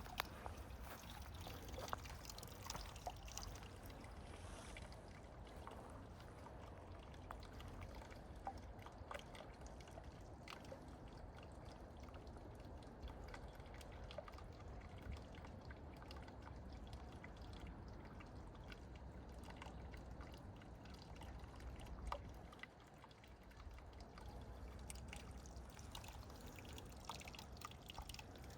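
Faint water trickling and dripping over a steady low rumble, easing off briefly about three quarters of the way through.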